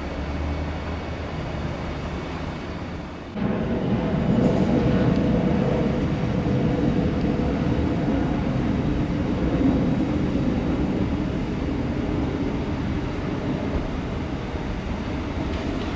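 Jet airliner engines rumbling steadily. The rumble drops for a moment, then comes back louder about three seconds in and holds.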